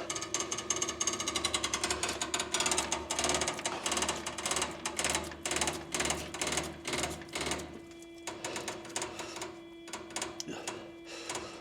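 Electric fuel transfer pump on a John Deere 9500 combine ticking rapidly as it primes the injection pump before a cold start, with a steady hum under it. The ticking thins out and stops about eight seconds in as the fuel system fills, and the hum carries on.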